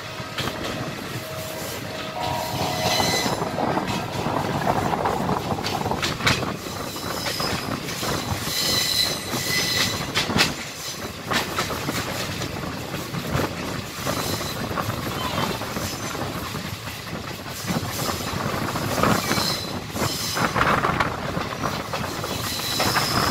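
Indian Railways passenger train running along the track on a curve: a steady rumble of wheels on rail with scattered sharp clicks and knocks, and a high-pitched wheel squeal that comes and goes several times.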